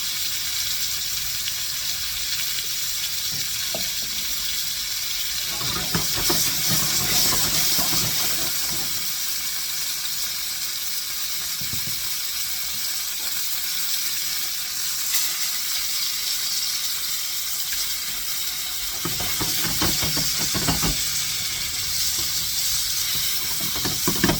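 Chicken breasts sizzling in oil in a skillet: a steady hiss that swells louder about six seconds in and again around twenty seconds.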